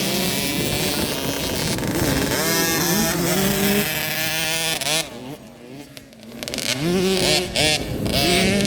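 Several youth dirt bikes racing, their engines revving up and down as they shift and ride the track. The engine sound drops away for a second or so after the halfway point, then the revving climbs back in.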